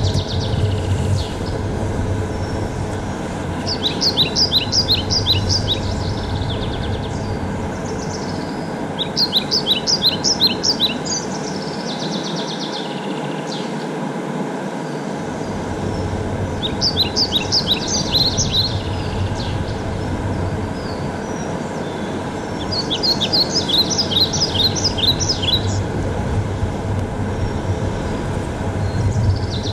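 A songbird singing four short phrases of rapid, high, repeated notes, each about two seconds long, a few seconds apart, over a steady low outdoor rumble.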